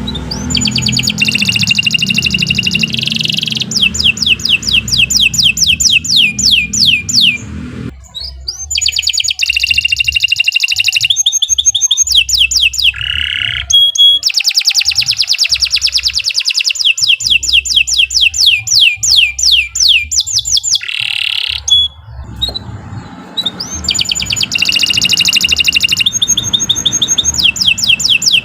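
Domestic canary singing a long, loud song of rapid trills: runs of fast, evenly repeated sweeping notes, with brief breaks about 8 and 22 seconds in.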